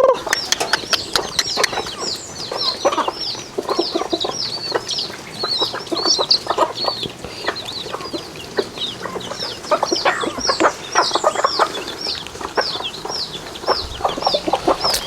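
Chickens at feeding: chicks peeping over and over in high, falling notes about twice a second, with lower clucking and sharp clicks in among them.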